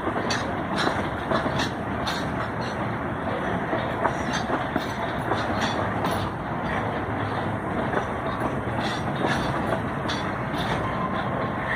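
Freight train wagons rolling past: a steady rumble of steel wheels on the rails, broken by irregular sharp clicks and clacks.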